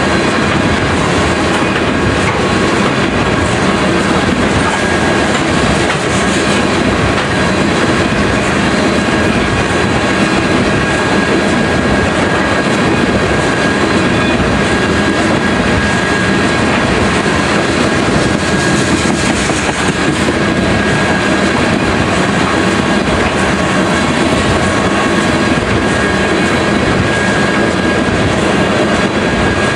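Freight train of tank cars rolling past, a steady unbroken rumble and rush with faint steady high tones over it.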